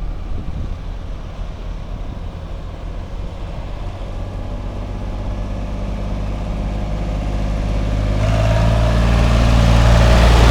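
Vehicle engine running at a steady pitch, growing louder from about eight seconds in.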